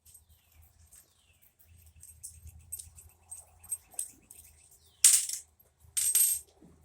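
Light metal clicks and taps of small tools while a soldering iron's tip is being worked on, then two short harsh rasping bursts about a second apart, the second a little longer and the loudest.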